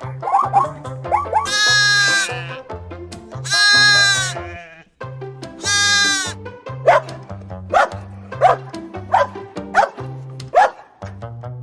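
Three long, wavering bleats, then a run of short, sharp barks, over background music with a steady bass line.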